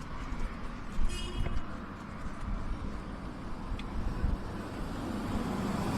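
Wheels of a dog-pulled street sled rolling over pavement with a steady rumble, street traffic behind it growing louder near the end. A brief high squeak comes about a second in.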